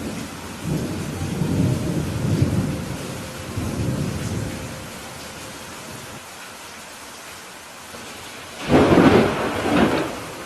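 Steady rain with thunder: a low rolling rumble through the first half, then a sudden loud thunderclap near the end, rumbling on for about a second and a half.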